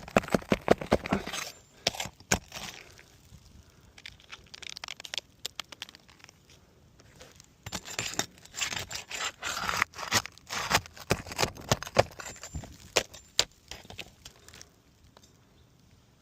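Asphalt roof shingles being pried up and their nails worked loose: a metal tool scraping and clicking against the shingles and nails, with the brittle shingles crackling. The clicks and scrapes come in clusters, a burst at the start and a longer run in the middle.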